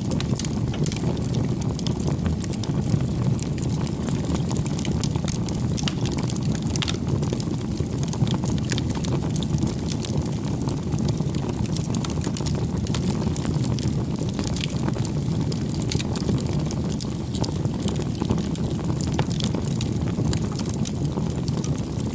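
Wood fire burning: a steady low rush of flames with frequent crackles and sharp pops of burning wood.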